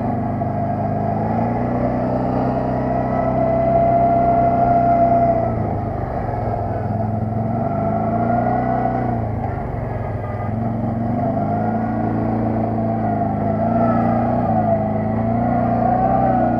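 ATV engine running under way, its pitch rising and falling gently with the throttle, with a steady higher whine above the engine note.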